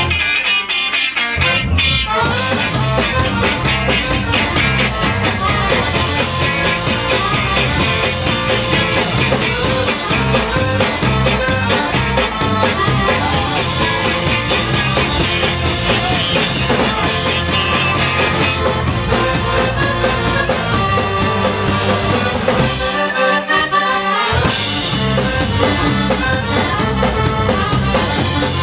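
Instrumental band music with no vocals: the opening of a rock-flavoured song. A steady bass and drum beat comes in about two seconds in, drops out briefly near the end for a break, then returns.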